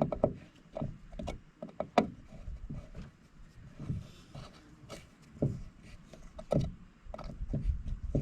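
Irregular knocks, clicks and rubbing from hand work on a part's cap and seal, with the sharpest click about two seconds in.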